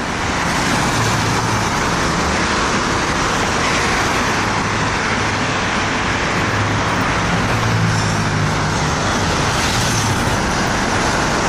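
Steady road traffic noise: a continuous hiss of tyres and wind over a low engine hum that swells slightly a few times.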